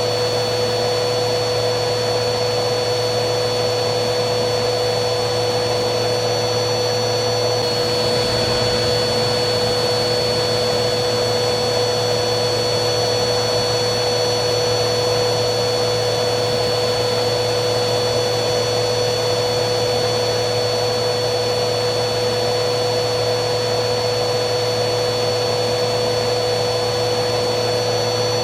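Vacuum cleaner running steadily: a constant motor whine over the rush of air, with a slight shift in the high whine about eight seconds in.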